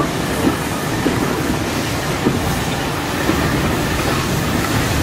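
Train running along the track, heard on board: a steady rumble of the wheels on the rails with a few separate clicks as the wheels pass over rail joints.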